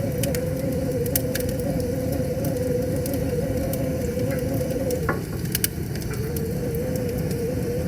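Wood fire crackling, with sharp pops around a second in and again about five and a half seconds in, over the steady rush of flowing river water. A steady, slightly wavering tone runs underneath.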